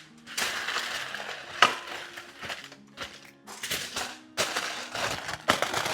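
Kitchen wrap crinkling and rustling in several bursts, with short pauses, as it is pressed around a dinner plate.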